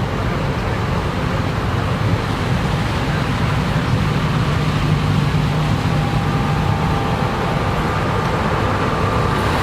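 Heavy farm machinery engine running steadily, a continuous low drone.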